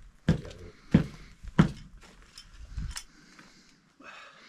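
A few sharp knocks and metallic clinks, about four in the first three seconds, from hand work on the sawmill's metal parts.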